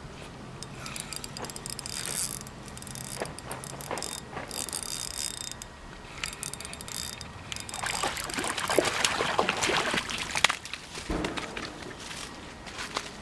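Fishing reel being cranked, with a ratcheting click in stop-start bursts that are busiest and loudest in the second half.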